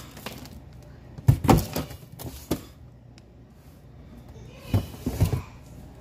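Knocks and clatter from things being handled in a refrigerator, in two short clusters: one about a second in and one near the end.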